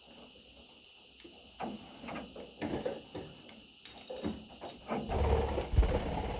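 Irregular rustling and scraping, growing busier from about a second and a half in, with a louder low bump and rumble about five seconds in.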